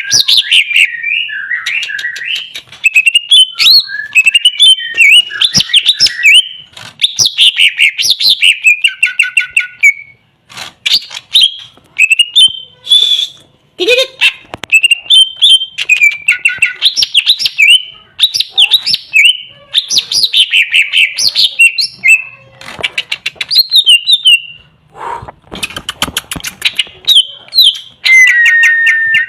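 Cucak ijo (greater green leafbird) singing a fast, varied song of chirps, whistled glides and clicks, with a few brief pauses.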